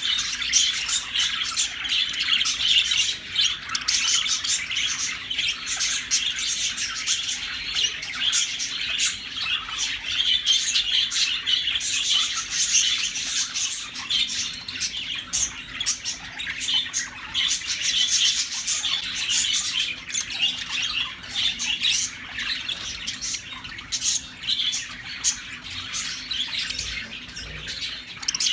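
Several English budgies chattering and chirping continuously, with many short chirps and squawks overlapping.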